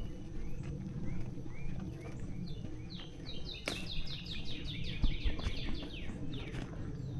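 A songbird singing: scattered short falling chirps, then about three seconds in a quick run of falling notes lasting a few seconds, over a steady low background rumble.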